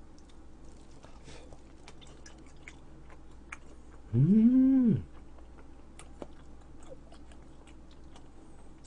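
A man chewing food, with many small wet mouth clicks. About four seconds in, a short loud hummed 'mmm' rises and then falls in pitch.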